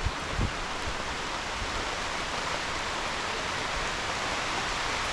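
Steady rain falling, a continuous even hiss, with a couple of low bumps just after the start.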